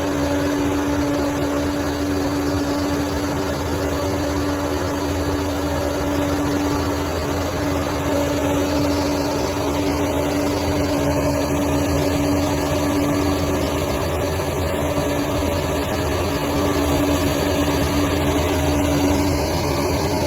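Bulldozer's diesel engine running steadily, with a steady whining tone over the low engine rumble.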